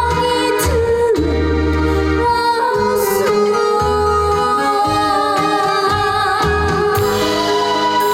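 A female voice singing a slow trot ballad with vibrato over an instrumental backing track with a steady bass.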